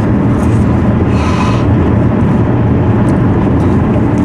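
Steady low road and engine rumble inside a moving car's cabin, with a brief rustle about a second in.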